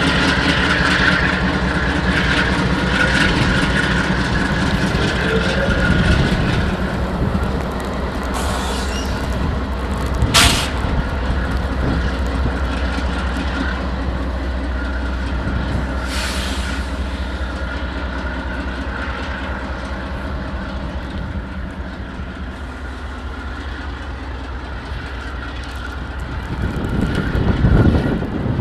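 Freight train rolling past with a diesel locomotive working under throttle, a steady low hum over rail cars clattering on the track and a high wheel squeal. A single sharp metallic clank comes about ten seconds in.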